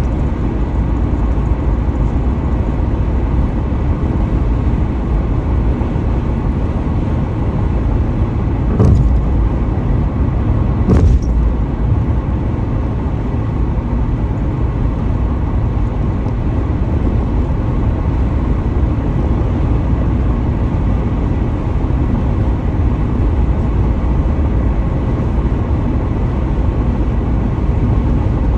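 Car driving at highway speed: steady road and tyre rumble, with two brief thumps about nine and eleven seconds in.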